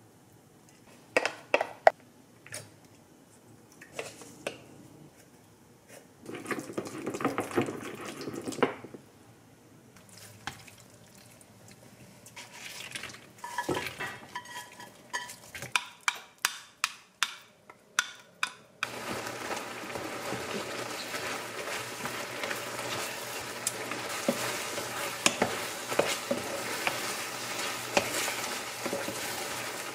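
Cooking sounds. First a wooden spoon clinks and scrapes in a glass mug as a seasoning sauce is mixed. Then comes a quick run of sharp knocks. From about two-thirds of the way in, octopus and vegetables fry with a steady sizzle in a pan, while the spoon scrapes and taps as it stirs.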